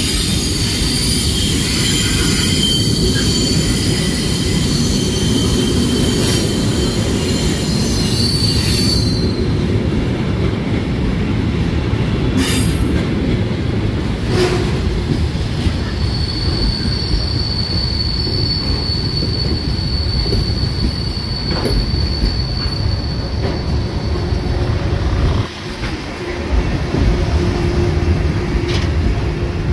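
Train moving through a station: a steady low rumble of wheels on the rails, with high-pitched wheel squeal for about the first nine seconds and a single held squeal for several seconds in the second half.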